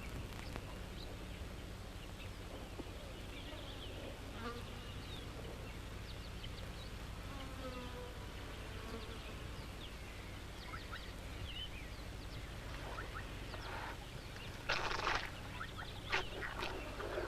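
Faint ambience of a drying water hole: flies buzzing, with short high chirps over a steady low hum. About fifteen seconds in there is a louder rush of noise lasting under a second, followed by a few shorter ones.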